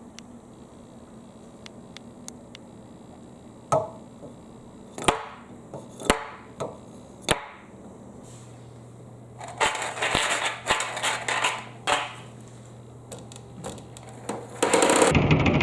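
Marbles knocking and clattering down a marble run: a few separate clacks, then a quick run of clicks and rattles. Near the end a loud, even rushing noise sets in suddenly.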